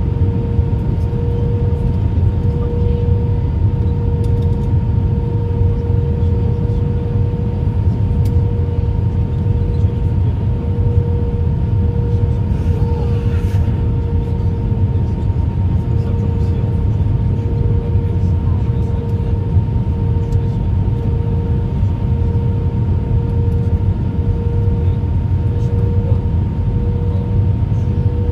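Airbus A319 cabin noise: a steady low rumble with a constant hum.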